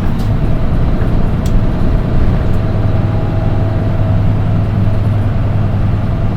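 Nissan Diesel Space Runner RM (PDG-RM820GAN) city bus running, heard from inside the cabin: a steady low diesel engine drone with a thin, steady high tone over it. That shrill engine note sets this one bus apart from others of its model.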